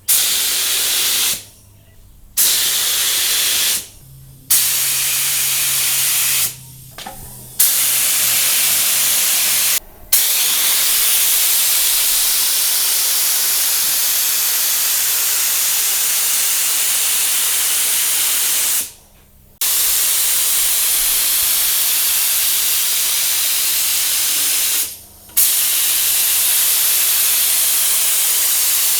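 Compressed-air paint spray gun hissing in long bursts, cutting off and restarting abruptly as the trigger is released and pulled again between passes; the longest unbroken run lasts about nine seconds.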